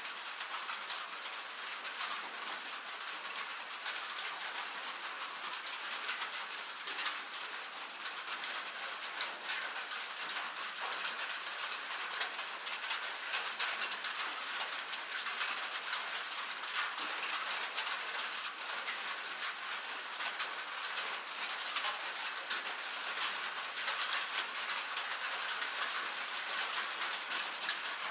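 Steady rain on a metal roof: a dense, even patter of fine ticks with no break.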